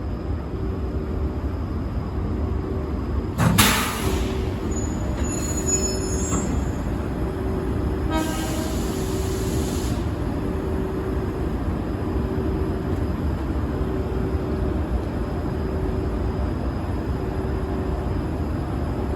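Train running with a steady low rumble. A brief loud burst comes about three and a half seconds in, and a high hiss follows from about eight to ten seconds in.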